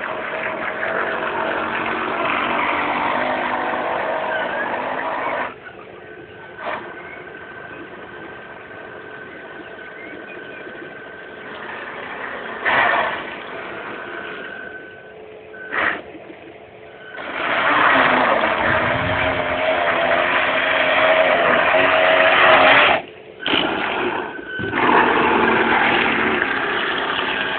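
An engine on a test run: it runs loud and steady, drops after about five seconds to a quieter level with a steady high whine and a few short bursts, then comes back up loud for several seconds, cutting out briefly twice near the end.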